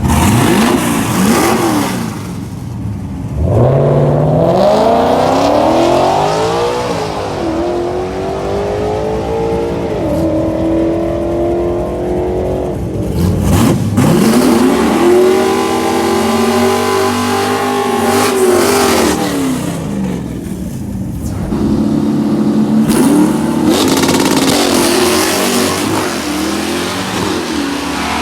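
Drag-racing car engines accelerating hard, one run after another. The engine pitch climbs, drops back at each gear change and climbs again.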